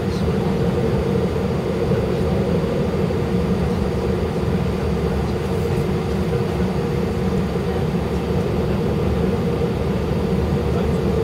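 Airbus A319 jet engines at taxi idle heard inside the passenger cabin: a steady hum over a low rumble, with one constant tone running through it.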